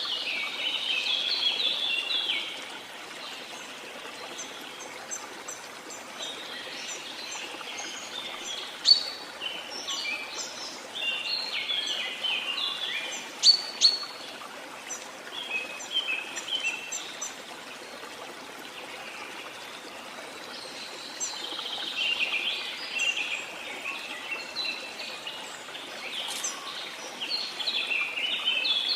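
Rainforest ambience: steady rain or running water hissing under many birds chirping and chattering, in dense bouts near the start, through the middle and again near the end, with a few sharp whistled notes.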